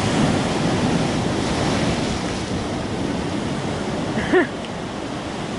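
Big ocean waves surging and breaking, with wind blowing on the microphone. A brief voice-like cry about four seconds in.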